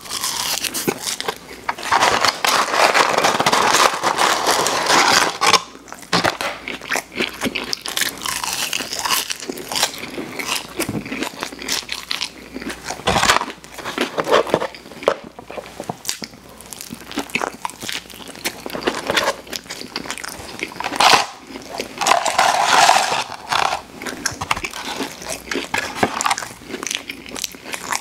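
Close-miked eating: crunchy chewing of McDonald's fries, then biting and chewing a burger, with many short wet mouth clicks. The crunching is densest early on and again about three-quarters of the way through.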